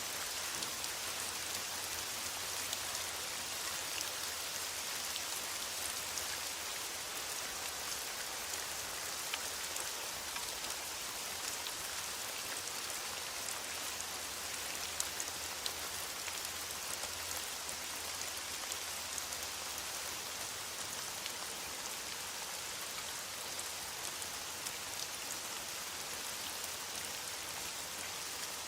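Steady rain falling in a forest, an even hiss with single close drops heard as small scattered ticks.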